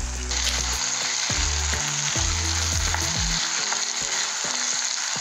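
Onions, tomatoes, green chillies and ginger-garlic paste sizzling in hot oil in a non-stick pan while being stirred and scraped with a wooden spatula.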